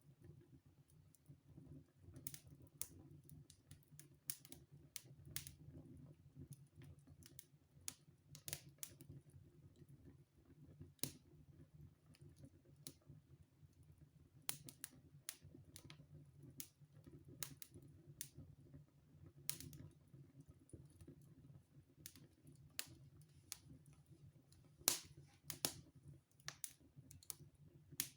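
Wood fire in a fireplace crackling quietly: irregular sharp pops and snaps over a faint steady low rumble, with a few louder pops near the end.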